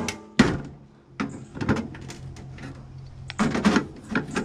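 Sharp metal knocks and clatters of a microwave oven being taken apart for scrap. A steady low hum runs under them from about half a second in until a little past three seconds.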